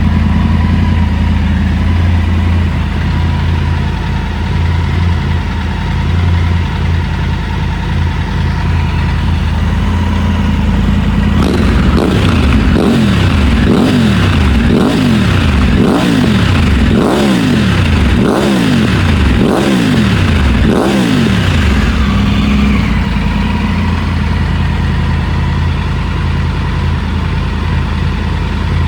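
2024 Triumph Tiger 900 Rally Pro's three-cylinder engine, breathing through an aftermarket MIV exhaust, idling steadily and then blipped about nine times in quick succession about a third of the way in, each rev rising and falling, before it settles back to idle.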